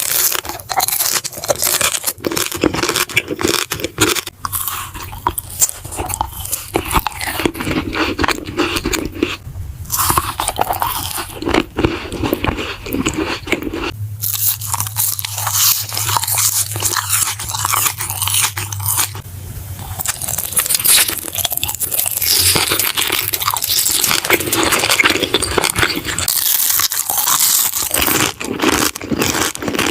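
Close-miked eating: crunchy bites and chewing, a dense run of sharp crackly crunches that goes on throughout. About halfway through the crunching turns brighter and crisper over a low steady hum.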